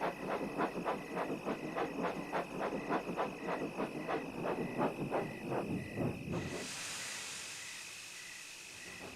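Steam locomotive sound effect: even chuffing at about four beats a second, stopping about six seconds in, followed by a long hiss of released steam that slowly fades as the engine comes to a stand.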